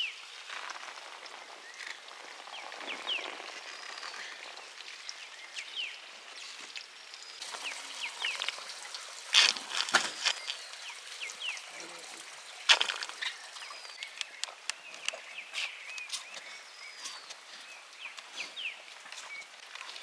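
Small birds chirping with short rising and falling calls throughout, over a faint outdoor hiss. A few loud sharp clicks and knocks stand out, two close together near the middle and another a few seconds later.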